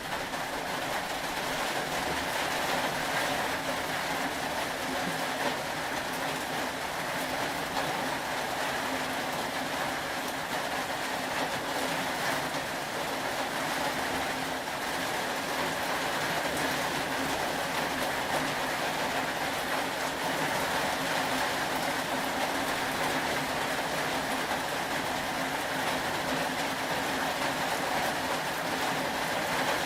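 Steady rain falling, an even hiss of drops with no breaks or surges.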